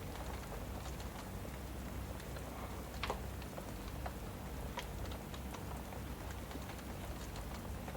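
Wood fire crackling with scattered irregular pops, one sharper pop about three seconds in, over a steady hiss of rain.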